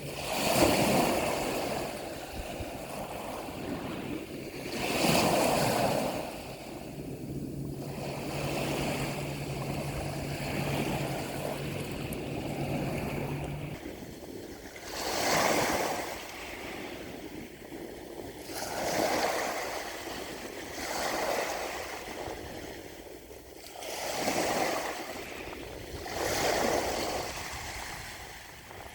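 Ocean surf: waves breaking and washing in, swelling and falling in surges every few seconds. A faint steady low hum runs underneath for several seconds in the first half.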